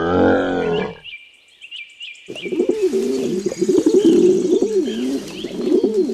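A camel's low call ends about a second in. After a short pause a pigeon coos in repeated rolling phrases, with faint high bird chirps around it.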